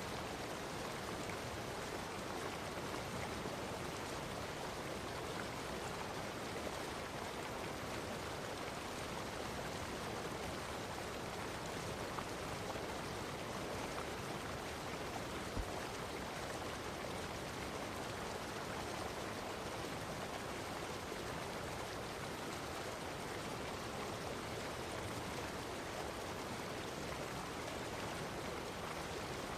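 Stream of running water flowing with a steady, even rush and no change.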